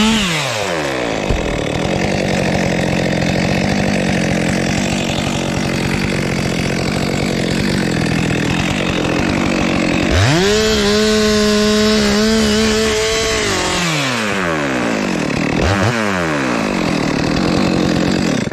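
Stihl MS 462 chainsaw cutting through aini (wild jack) wood, the engine note held down steady under load. About ten seconds in it races to a higher pitch as the bar comes free of the cut, then drops back and is blipped a couple of times before cutting off.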